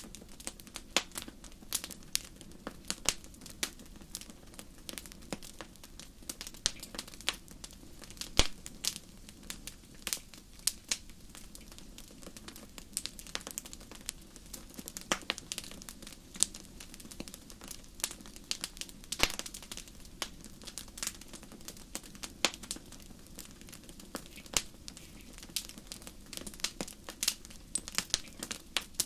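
Wood fire crackling, with frequent irregular sharp pops and snaps over a low steady hiss.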